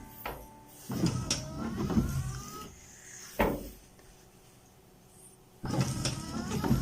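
Car windscreen wipers running, two sweeps across the glass with the wiper motor whining and the rubber blades rubbing. The left blade's frame has just been bent back so that it presses evenly on the glass.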